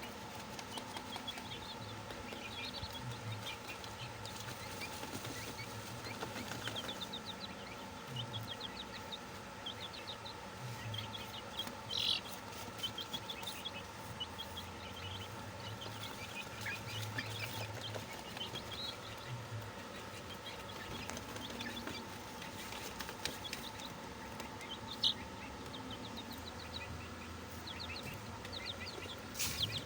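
A brood of young chicks peeping, many short high chirps overlapping without a break, with an occasional sharp click.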